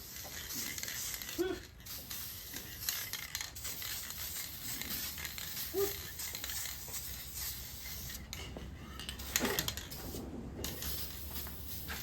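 Aerosol spray-paint can hissing as it coats an engine block, in long bursts with a few short breaks.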